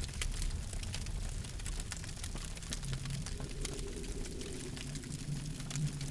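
Wood campfire crackling, with many small sharp pops over a steady low rush of the flames.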